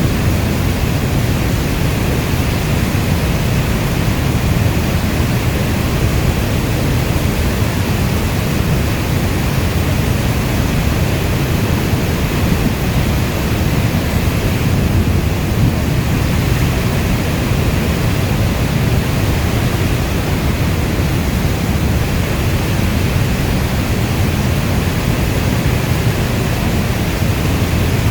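Heavy rain falling steadily: a dense, even rush of noise weighted toward a deep low rumble, with no single drops or thunderclaps standing out.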